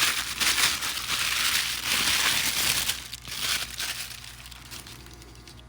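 Packaging crinkling and rustling as a model train tender is unwrapped from its box, dying down about three and a half seconds in.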